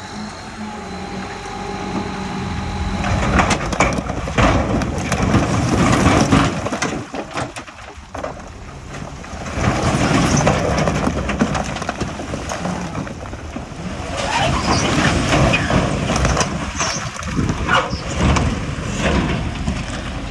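Diesel engine of heavy earthmoving machinery running, with a loud spell of rock crunching and knocking that starts a few seconds in, eases briefly, then carries on.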